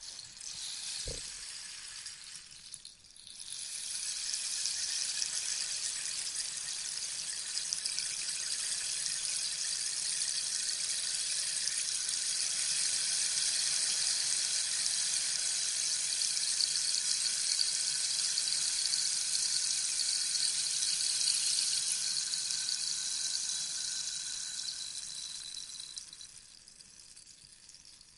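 Rainstick being tipped, its pellets trickling down inside the tube with a rain-like patter. A short pour stops about three seconds in, then a long pour runs for some twenty seconds and tapers away near the end.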